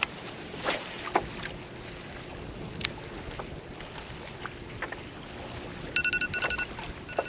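Scattered knocks and clicks over a steady wash of wind and water noise. About six seconds in, an electronic alarm starts beeping in quick groups of high tones: the alarm marking the lines-out end of a fishing tournament.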